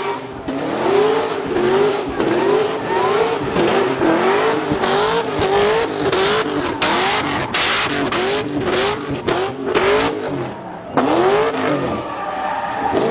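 A drift car's engine is revved up and down over and over in quick swells, while the tyres squeal and skid through the slide. There is a louder surge about eleven seconds in.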